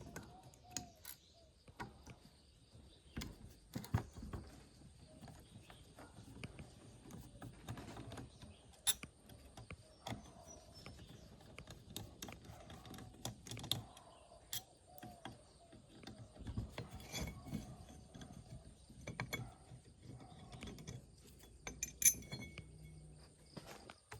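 Irregular metal clinks, taps and knocks of hand tools and machine parts being handled during work on a rusty mortising machine. A few sharper knocks stand out about 4, 9 and 22 seconds in.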